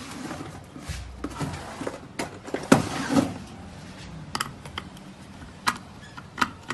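Irregular clicks and knocks of grinder parts being handled during a repair, with a louder rushing, scraping stretch about two and a half to three seconds in.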